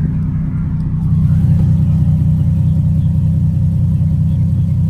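Nissan 370Z's 3.7-litre V6 running through a Greddy RS-Race single-exit exhaust, a steady deep drone that gets louder about a second in. No rattle is heard: the exhaust rattle has just been fixed.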